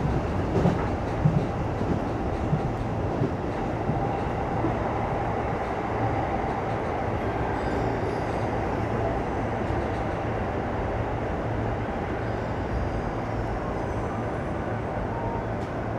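E233 series electric train running along the track, a steady rumble and hum heard from inside the front car, with a few sharp clicks in the first few seconds.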